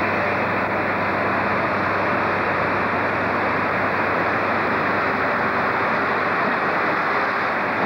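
British Rail first-generation diesel multiple unit running slowly along a platform in a covered station: a steady, even rumble and hiss with a faint low hum, with no distinct clicks or squeals.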